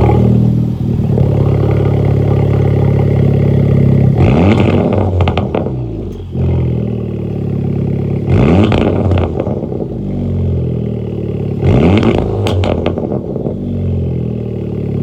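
Honda Civic Type R's 2.0-litre turbocharged four-cylinder through a non-resonated Greddy DD-R cat-back exhaust. It fires up and idles steadily, and is revved in three short blips that rise and fall back to idle, about four seconds apart.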